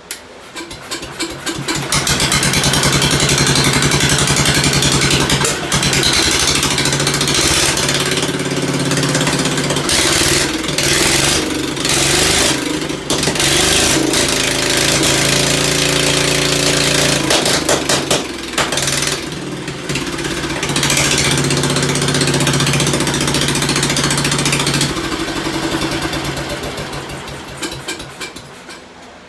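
Old Ford tractor engine running with no muffler. It catches and picks up over the first couple of seconds and runs loud with a few brief stumbles. Near the end the firing slows and the sound falls away. It is popping and running rough at low speed, which the owner puts down to a too-lean low-speed carburetor mixture.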